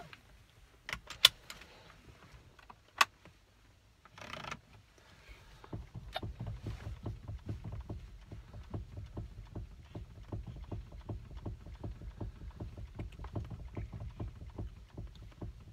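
A few sharp clicks, then from about five seconds in a low, rapidly pulsing rumble of a car engine idling, heard inside the cabin.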